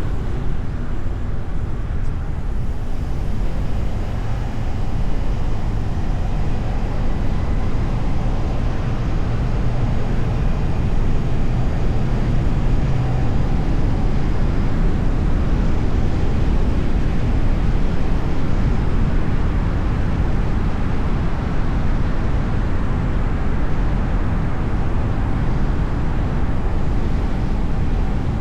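Steady road noise from a moving car: a constant low rumble of tyres and engine that holds level throughout.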